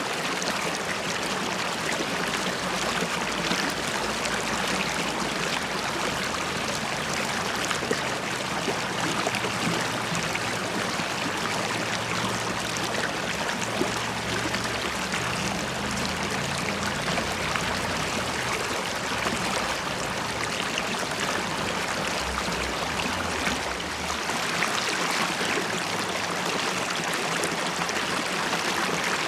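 River water running and bubbling steadily, a continuous even rush.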